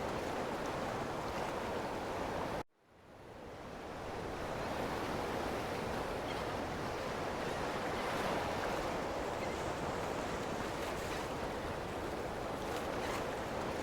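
Ocean surf washing continuously, an even rushing of waves. About three seconds in it cuts out abruptly and fades back in over a second or so, like a splice in the loop.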